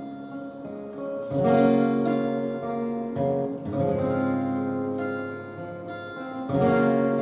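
Acoustic guitar playing the instrumental break of a folk song, with ringing chords struck about a second in, again at about three and a half seconds, and near the end.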